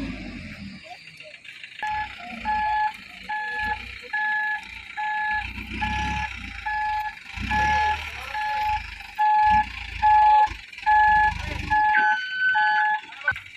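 Truck alarm beeping steadily, about two short beeps a second, with a Mitsubishi Fuso Canter dump truck's engine surging in repeated low bursts underneath.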